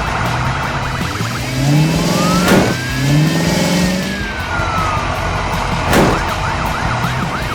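Cartoon vehicle sound effects: an engine revving upward, under a long whistling glide that rises and then falls. There are two sharp swishes about two and a half and six seconds in, and a quick run of short bouncy chirps near the end.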